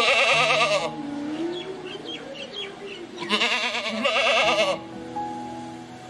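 Two loud quavering bleats from a goat or sheep, one at the start and a longer one in the second half, over soft sustained background music, with faint chirps between them.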